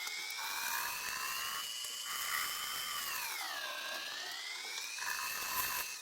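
High-pitched whine of a machining tool's motor or spindle, its pitch slowly rising, dipping for a moment about halfway through and climbing back again.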